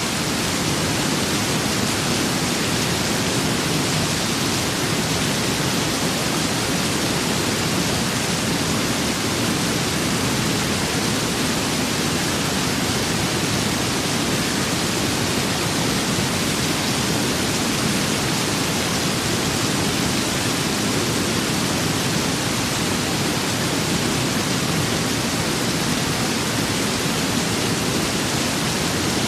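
Steady rain and wind, an even, unbroken hiss without drops or gusts standing out.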